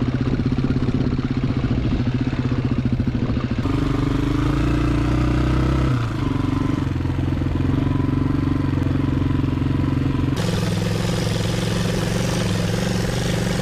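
Yamaha Serow 225's single-cylinder four-stroke engine running steadily, in three clips cut together. The sound changes abruptly about three and a half seconds in and again about ten seconds in.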